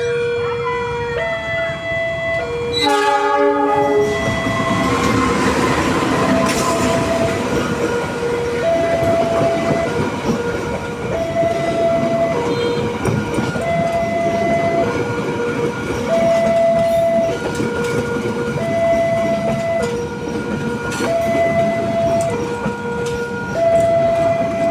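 A level-crossing warning alarm sounds an alternating two-tone signal, switching tone about every second and a bit. A short train-horn blast about 3 s in is followed by the rumble and wheel clatter of a train passing through the crossing.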